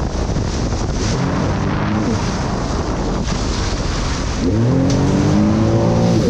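Jet ski engine running over steady wind and water noise, revving briefly about a second in, then climbing in pitch and getting louder from about four and a half seconds.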